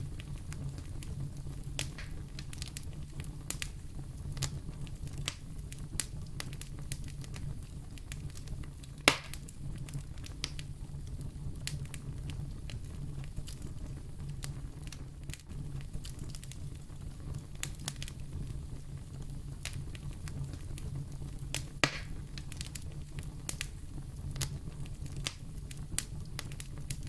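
Wood fire burning in a fireplace: a steady low rumble of flames under constant small crackles. Two sharper, louder pops come about a third of the way in and again near four-fifths through.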